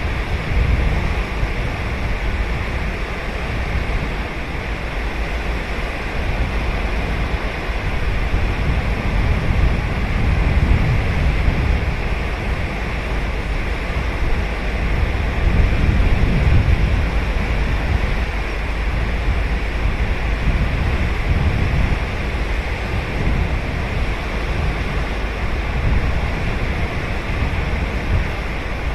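Sagami Bay surf breaking and washing on the beach: a continuous rushing wash that swells and eases as the waves come in.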